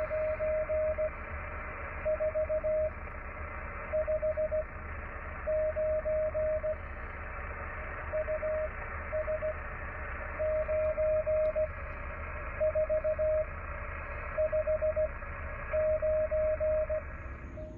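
Morse code (CW) from an amateur radio transceiver: a single tone of about 650 Hz keyed in short groups of dots and dashes, with brief gaps between the groups. It plays over the receiver's steady band hiss.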